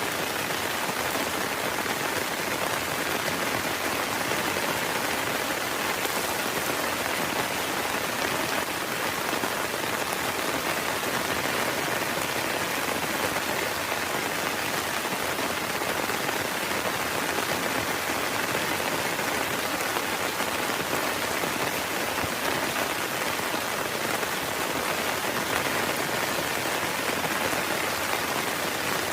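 Heavy rain falling steadily, an even, dense patter that holds at one level throughout.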